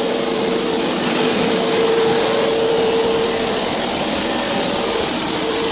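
Stainless steel pipe welding machine running: a steady loud mechanical noise with a hum that fades and returns.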